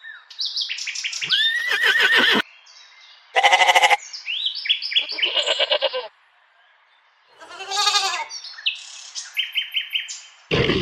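A run of short animal calls that start and stop abruptly: bird chirps and calls, broken twice by a bleat, once about three and a half seconds in and again about eight seconds in.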